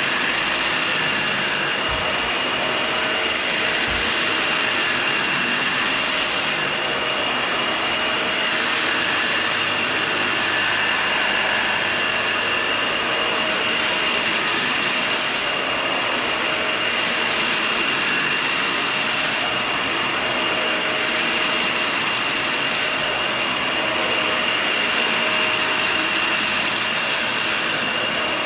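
Vacuum cleaner running steadily over a shaggy rug, with a high whine over its rushing air, the hiss growing and easing every three to four seconds.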